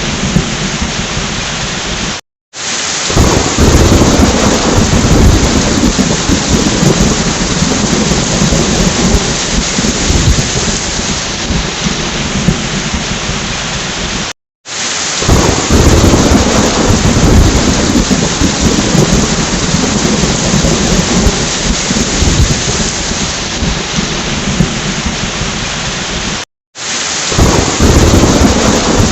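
Heavy rain with rolling thunder. The sound drops out to silence for about half a second three times, roughly every twelve seconds, and a low thunder rumble swells up after each break.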